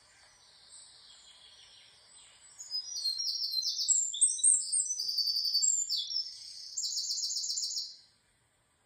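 A songbird singing: faint chirps at first, then from about three seconds in a loud run of high, rapid trills and chirps that stops abruptly about eight seconds in.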